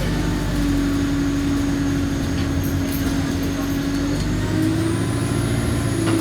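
Alexander Dennis Enviro200 single-deck bus engine and drivetrain running under way, heard from on board. A steady whining tone over a low rumble, stepping slightly higher in pitch about four seconds in.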